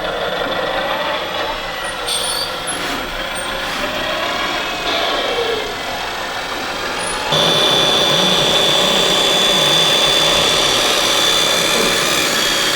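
Radio-controlled model construction machines and trucks running, their motors whining with a rising and falling pitch. The sound changes abruptly twice, and about seven seconds in a louder, steady high whine sets in.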